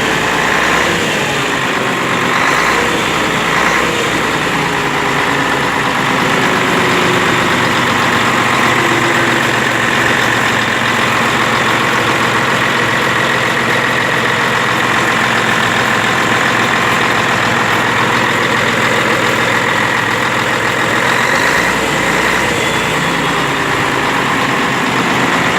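Scania T113H 360 truck's 11-litre six-cylinder turbo diesel engine idling steadily.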